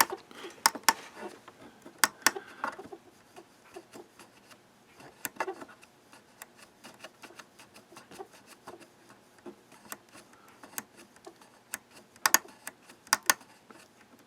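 Irregular sharp clicks and taps of small tools and parts being handled on a workbench during cleaning of a radio's volume potentiometer, in clusters near the start, around two and five seconds in, and again near the end.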